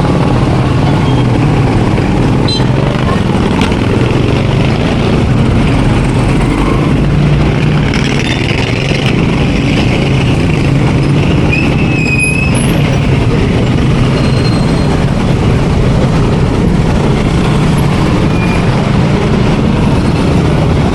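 Steady street traffic with a vehicle engine running nearby, giving a constant low hum, and indistinct voices in the background.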